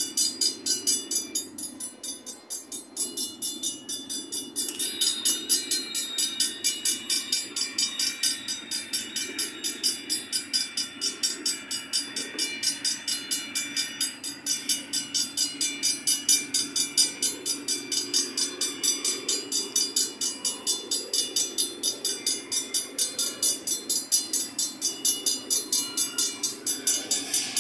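Loaded freight cars rolling slowly past with a steady rumble, while a level-crossing bell rings evenly about twice a second.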